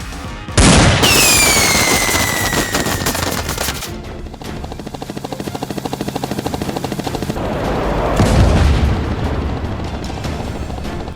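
Rapid automatic gunfire sound effects over background music. It starts with a sudden loud burst about half a second in, with a falling whine over the first few seconds, then settles into an even rapid fire.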